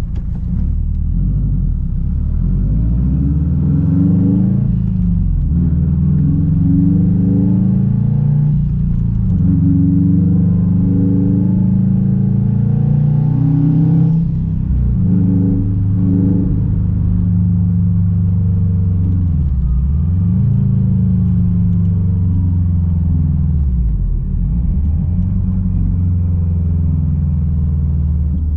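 Straight-piped 2006 Subaru WRX STI's turbocharged flat-four running under way, the exhaust note climbing in pitch through several pulls. The pitch drops sharply and recovers at gear changes, twice in the later part.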